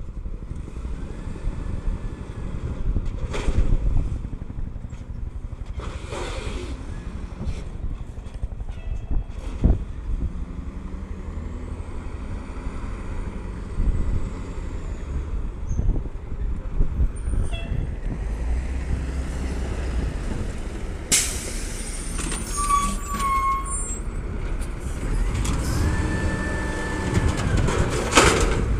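Garbage truck's engine running with a steady low rumble, a few brief rising-then-falling whines, and one sharp air-brake hiss about three-quarters of the way through.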